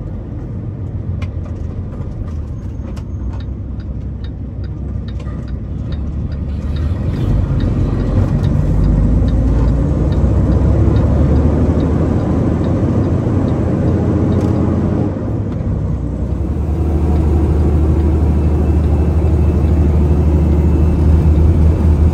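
Semi-truck diesel engine heard from the cab, pulling and growing louder about seven seconds in, easing briefly around fifteen seconds as between gears, then running on as a steady low drone. A light regular ticking, about twice a second, runs through the first half.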